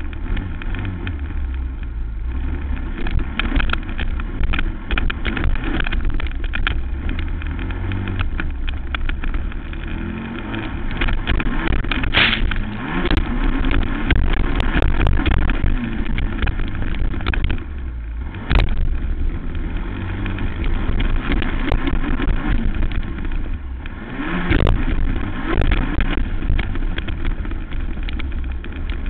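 Racing quad's engine running hard, rising and falling in revs through a motocross lap. A few sharp knocks cut through, the loudest about twelve seconds in, then others about eighteen and twenty-four seconds in.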